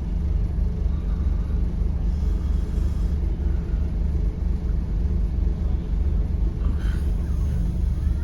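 Scania N270UD OmniCity bus's five-cylinder diesel engine running steadily, heard from inside the passenger cabin as an even low rumble.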